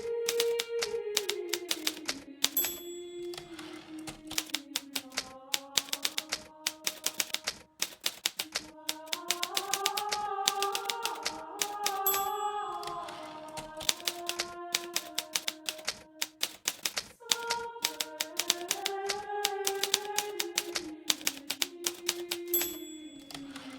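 Hermes Baby portable typewriter being typed on steadily: a rapid, uneven run of keystroke clacks. Soft background music with slowly shifting held tones plays underneath.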